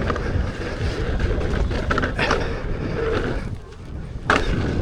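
Wind rushing over the microphone and tyre rolling noise from a Kingsong F18 electric unicycle riding fast down a dirt trail, with a sharp knock a little past four seconds in.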